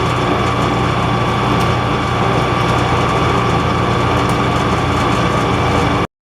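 Metal lathe running steadily with a constant whine and hum, then cutting off suddenly about six seconds in.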